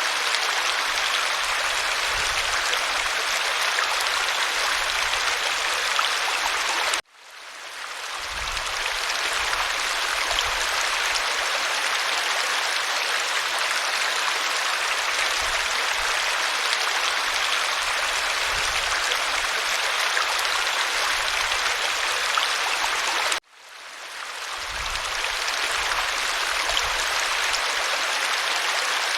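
Waterfall: a steady rush of falling water. It cuts out suddenly twice, about seven seconds in and again near the end, and fades back in over a second or two each time, as at the seam of a looped recording.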